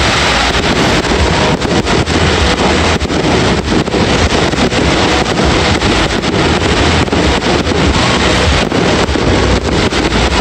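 Loud, dense barrage of fireworks: many sharp bangs one after another over a continuous wash of crackle and rumble.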